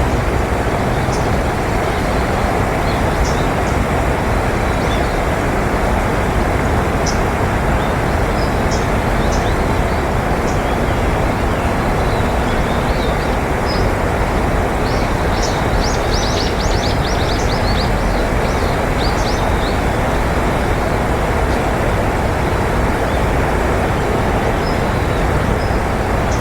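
Steady roar of road traffic, with small birds' short, high chirps scattered over it and a quick run of chirps about two-thirds of the way through.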